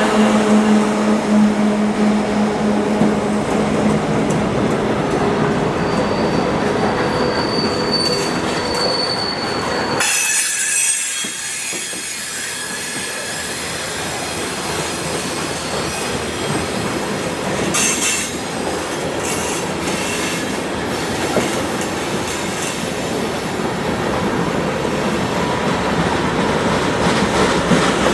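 CSX manifest freight train rolling past, its cars running over the rails with steel wheels squealing and clicking over the rail joints. A steady low tone from the train dies away in the first few seconds.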